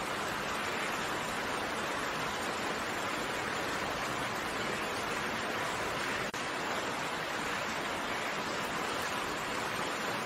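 Steady rain: a dense, even hiss of falling rain with no separate drops standing out, broken by a momentary dropout about six seconds in.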